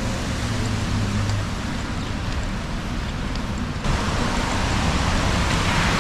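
Steady rain and traffic on wet city streets: an even hiss of rain and tyres with a low rumble of passing cars, the hiss growing louder and brighter about four seconds in.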